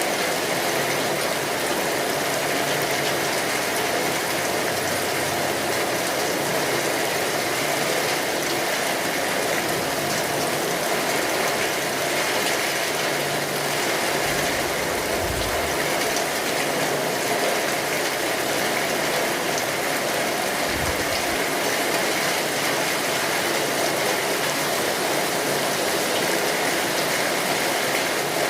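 Steady rain drumming on a tin roof, mixed with the clicking crackle of a wood fire. Two brief low rumbles come about halfway through, the second some six seconds after the first.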